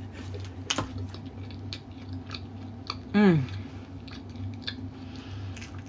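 Close-miked chewing of soft, cheesy pizza: small wet mouth clicks and bites, with a short hummed "mm" falling in pitch about three seconds in.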